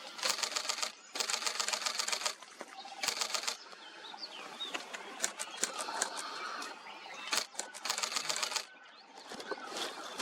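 Camera shutter firing in rapid continuous-shooting bursts, about five runs of fast clicks separated by short pauses, with a few single clicks in between.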